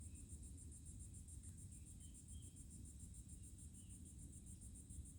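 Faint crickets chirping: a high, fast, evenly pulsing chirp that keeps going steadily, over a faint low rumble.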